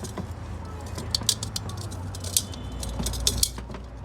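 Steel automatic-transmission parts clinking and tapping against each other as they are handled and fitted, in short clusters of sharp metallic clicks, over a steady low hum.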